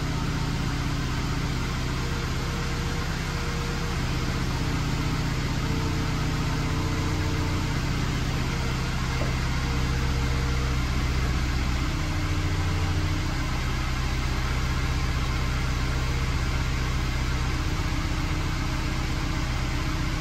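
Mercedes-Benz E-Class cabriolet engine idling steadily, left running so the air suspension can settle onto newly fitted lowering links.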